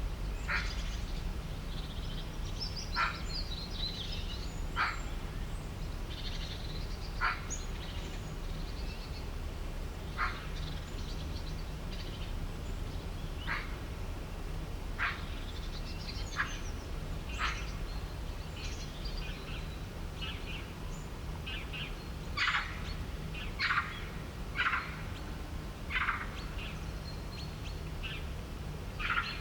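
Birds calling: short sharp calls repeated every couple of seconds, coming faster for a few calls near the end, with lighter high chirps between them, over a steady low hum.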